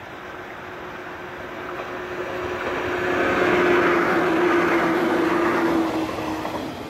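Local electric passenger train passing by. The noise of wheels on rails swells from about two seconds in, peaks for a couple of seconds, and falls away quickly near the end, with a steady hum running through it.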